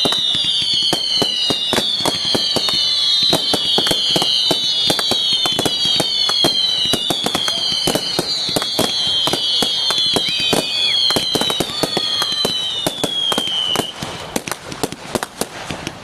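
Fireworks going off: a run of whistling fireworks, each a falling whistle about a second long, one after another over dense crackling and popping bangs. The whistles stop about 14 s in and the crackling thins out.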